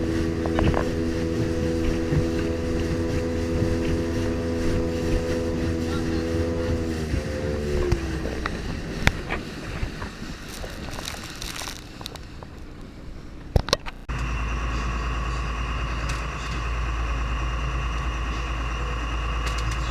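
Boat engine running steadily, its pitch stepping down about seven seconds in as it throttles back, followed by a few knocks. About fourteen seconds in the sound cuts abruptly to a different steady engine hum with a high whine.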